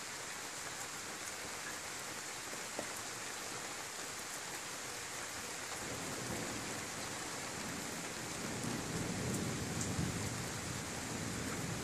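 Steady rain falling with a hiss, and a low rumble of thunder swelling from about halfway through, loudest near the end.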